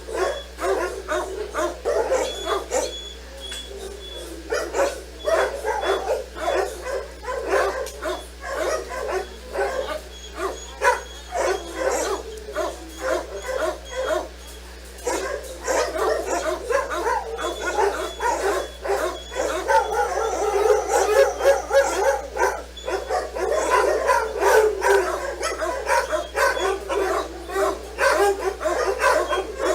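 Several dogs barking and yipping almost without a break, their barks overlapping, getting busier about halfway through.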